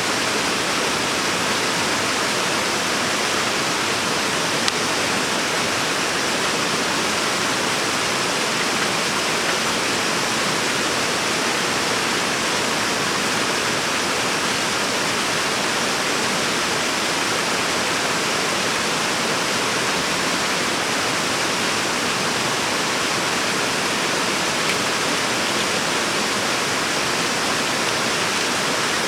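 Mountain stream running steadily: a constant, even rush of water with no breaks.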